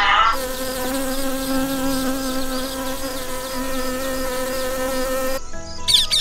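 Honeybees buzzing in a steady, even drone around a hive entrance. Near the end the buzzing stops and a macaw gives a couple of sharp, high squawks.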